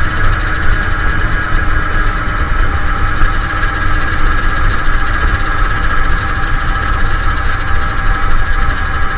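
Suzuki Satria two-stroke single-cylinder motorcycle engine running steadily, with a heavy low rumble under it.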